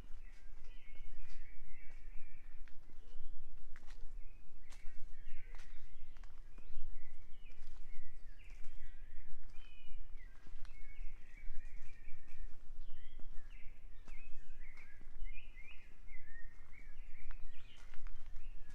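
Birds chirping and twittering all through, many short quick notes overlapping, with irregular clicks of footsteps on a forest trail and a steady low rumble underneath.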